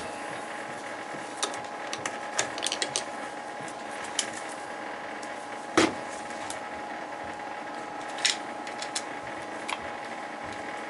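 Scattered clicks and metal clinks of hand tools and burner parts being handled, over a steady hum. The loudest knock comes about six seconds in.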